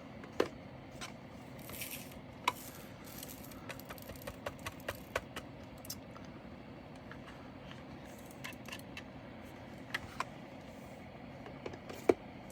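Small hard clicks and taps of diamond-painting drills and plastic containers being handled, with a quick run of light ticks about four seconds in and a few louder clicks, over a steady low background hum.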